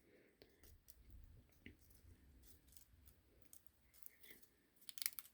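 Faint handling of die-cut cardstock: a few light clicks and rustles as paper panels are slid and slotted into each other, with a small cluster of ticks near the end.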